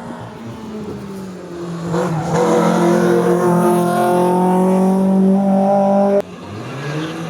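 Race car engine at high revs growing louder as it comes up the hill, then cutting off abruptly about six seconds in. A quieter engine follows, rising and falling in pitch.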